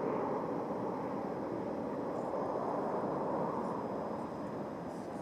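Jet airliner taking off, a steady rushing engine noise that eases off slightly near the end as the plane climbs away.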